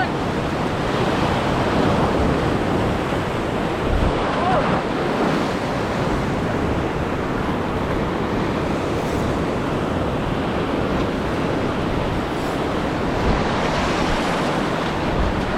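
Surf washing steadily over a shallow reef edge, with wind buffeting the action-camera microphone.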